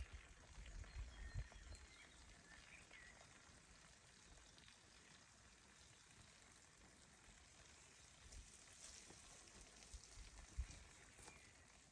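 Near silence: faint outdoor forest ambience, with low rumbles of wind on the microphone near the start and again near the end, and a few faint, high, short chirps.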